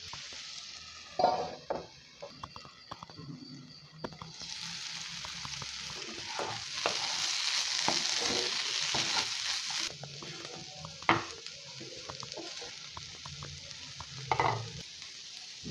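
Potato and peas masala sizzling in a nonstick kadai while a spatula stirs it, the sizzle swelling louder from about four seconds in until about ten seconds. Three sharp knocks of the spatula against the pan stand out, one near the start and two near the end.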